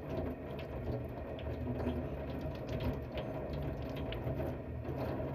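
A steady mechanical rattle with many small irregular clicks, like a small machine running.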